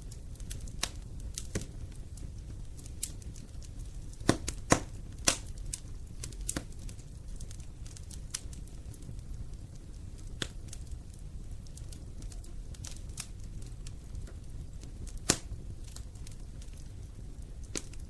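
Wood fire burning in a fireplace, crackling: irregular sharp snaps and pops over a steady low rumble of the flames. A few louder pops come in a quick cluster about a quarter of the way in, and one more well past the middle.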